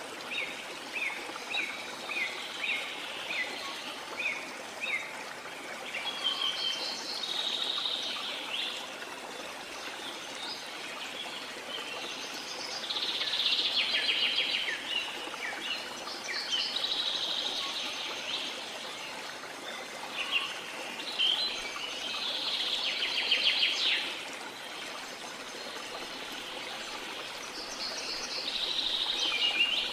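Birds singing over the steady rush of a waterfall. A bird repeats a short falling note about twice a second for the first five seconds, then bursts of fast trilled song come every few seconds.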